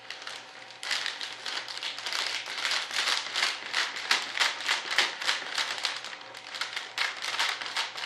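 Plastic vacuum-bagging film crinkling and rustling in quick, irregular handling strokes as laid-up fibreglass parts are worked into the bag tube.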